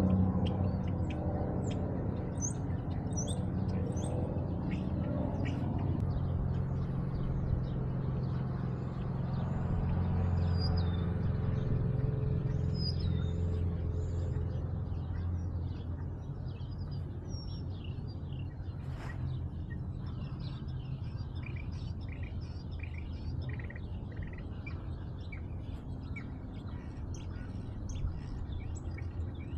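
Small songbirds chirping, many short calls overlapping, over a steady low rumble. A single sharp click comes about two-thirds of the way through.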